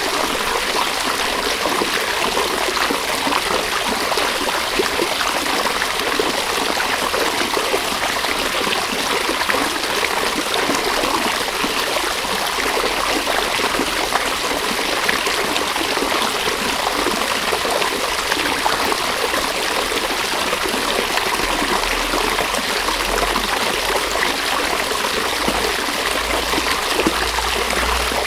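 Small river or stream flowing over stones, a steady rushing and trickling of water.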